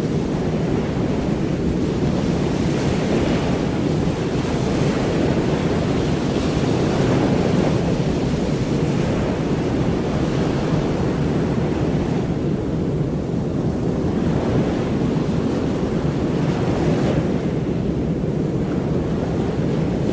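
Steady rushing noise of surf and wind, strongest in the low range, with slight swells.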